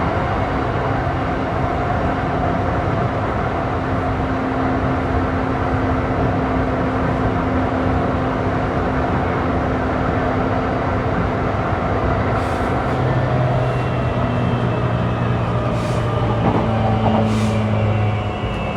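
Interior sound of a JR East E235-1000 series electric train running and slowing: wheel and rail rumble with steady motor whine tones that shift to lower pitches about three-quarters of the way in and fade out shortly before the end, with a few short hisses.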